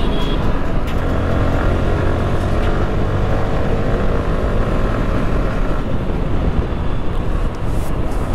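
Yamaha R15 sport bike's 155 cc single-cylinder engine pulling under acceleration, heard from the rider's seat with wind rushing over the microphone; the throttle eases off about six seconds in.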